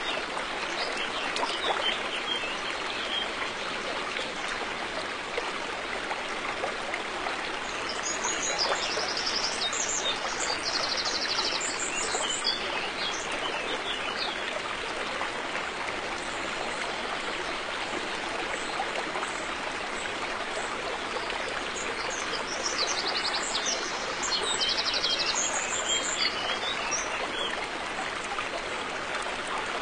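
River water flowing steadily. Birds chirp over it with short, high, rapid trills, in two spells about a quarter and three quarters of the way through.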